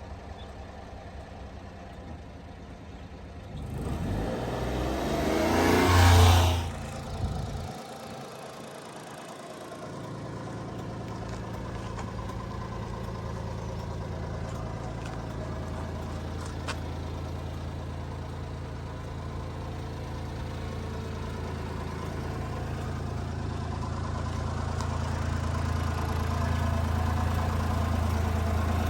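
1997 Honda Acty mini truck's small three-cylinder engine starting: a loud rising burst about four seconds in that cuts off sharply, then a steady idle from about ten seconds on that grows slightly louder toward the end.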